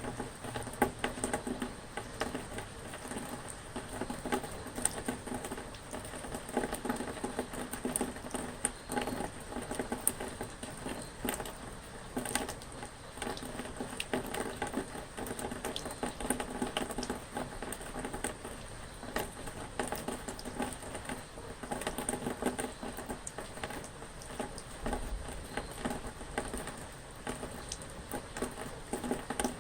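Rain pattering steadily, a dense scatter of individual drop hits.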